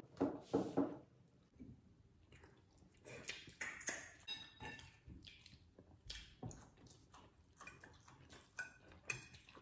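Eating at a table: scattered soft clicks and clinks of plates and cutlery, with small eating noises, all fairly quiet.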